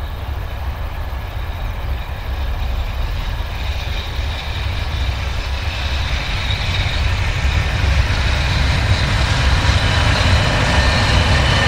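Train approaching: a low rumble that grows steadily louder, with a whine of several steady high tones building over it.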